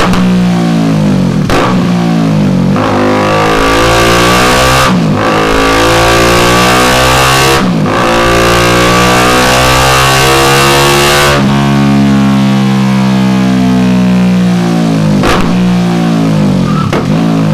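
BMW G310R's single-cylinder engine through a Delkevic DS70 carbon-fibre oval exhaust, revved hard in repeated pulls with the pitch climbing. Each pull is broken by a brief, sudden drop in the sound, about every two to four seconds.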